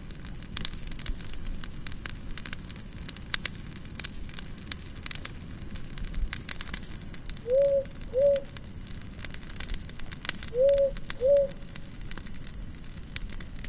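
Campfire crackling with scattered pops. Early on a cricket chirps in a quick run of short high notes, and in the second half a low two-note hoot sounds three times, a few seconds apart.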